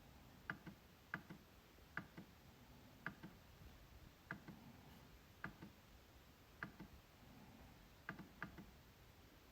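MacBook trackpad being clicked over and over, faintly. Each click is a quick pair of ticks, press then release, about one click a second.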